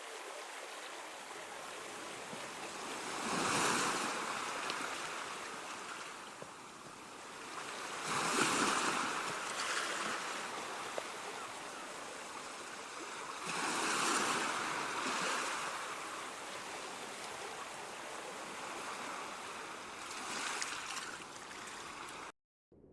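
Surf: a continuous rushing of waves that swells three times, about five seconds apart, then cuts off near the end.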